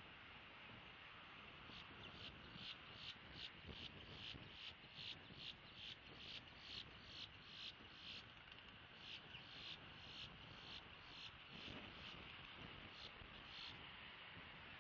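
Faint insect chirping: a regular run of short high-pitched pulses, about two or three a second, that starts a couple of seconds in and stops near the end, over a steady hiss of wind noise.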